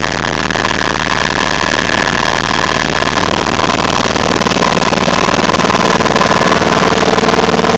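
Helicopter in flight: loud, steady turbine and rotor noise with a fast, even beat. A high whine fades about three seconds in, and a lower tone comes up near the end.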